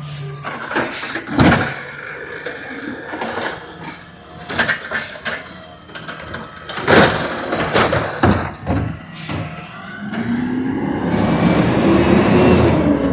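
Amrep garbage truck at work: a string of clanks and bangs, then its engine revving with a pitch that climbs over the last few seconds.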